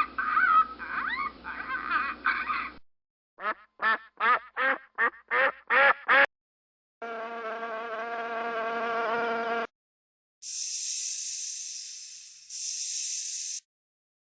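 A series of separate animal sound clips with short gaps between them. First comes busy chirping with gliding calls, then eight quick calls in a row, then a steady buzzing insect drone. It ends with a high, hissing buzz in two parts.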